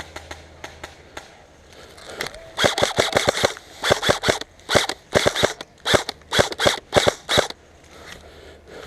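Airsoft gun firing in short rapid bursts, a string of sharp cracks repeated about eight times over some five seconds, after faint clicking at the start.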